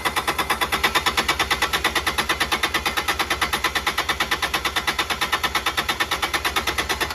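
Kubota D722 three-cylinder diesel being cranked by its starter without firing, a rapid, even chugging of compression strokes, while air is bled from its injector lines. The cranking stops abruptly at the end.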